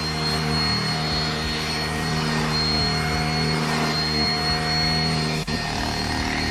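Deerma CM1500 handheld UV mite vacuum cleaner running steadily: a low motor hum under a thin high whine and the rush of suction air as it is worked over a pillow. There is a brief click about five and a half seconds in.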